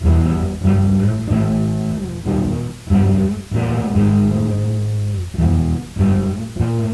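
Electric guitar played through an amplifier, picking out a slow riff of low notes and chords, recorded through a chain of noisy gain stages so that a steady hiss sits under the playing.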